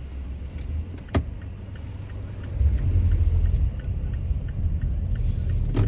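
Car driving with a steady low rumble from road and engine that grows louder about halfway through. A light, regular ticking runs through the middle at about three ticks a second, with a sharp click about a second in and another near the end.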